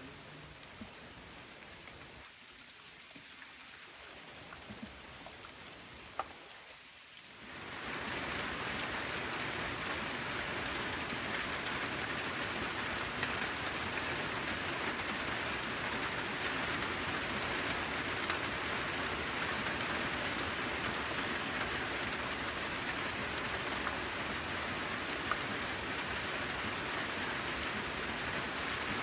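Steady rainfall, lighter for the first several seconds with a faint steady high tone behind it, then abruptly heavier and louder, a dense even hiss of rain from then on.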